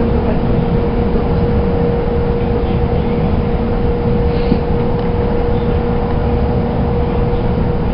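Shinkansen train running at speed, heard from inside the carriage: a steady rumble with a constant hum held at one pitch.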